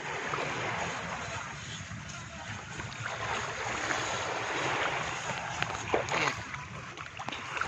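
Steady wind and water noise on open sea, with wind buffeting the microphone and no clear engine note.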